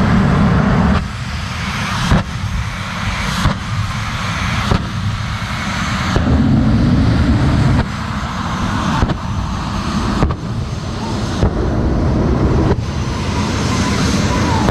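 Twin General Electric J85 afterburning jet engines of the Homewrecker jet truck running loud, with sudden sharp bangs and surges about every second or so.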